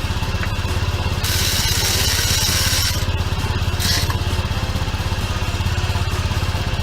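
A vehicle engine idling steadily with an even, fast low pulse. A high hiss comes in from about one to three seconds in, and again briefly around four seconds.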